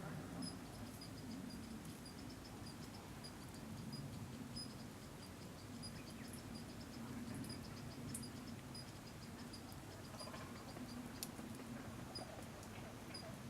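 Common kingfisher calls: short, high, thin peeps repeated irregularly, a few a second at times, over a steady low background rumble.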